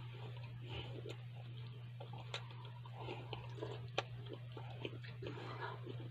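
A person chewing a mouthful of bread and ham with the mouth closed: soft wet mouth noises and small clicks, the sharpest about four seconds in, over a steady low hum.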